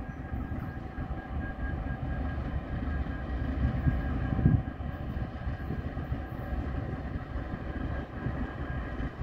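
CN freight train rolling by: a steady low rumble of wheels on rail, with one louder thud about four and a half seconds in.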